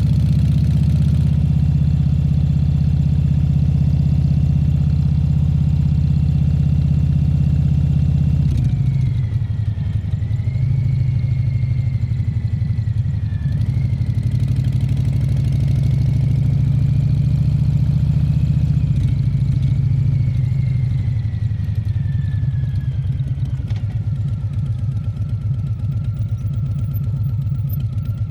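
Harley-Davidson Fat Bob 114's Milwaukee-Eight 114 V-twin running as the bike is ridden. The engine note is steady at first, changes about a third of the way in, then rises and falls with road speed, with a faint high whine over it.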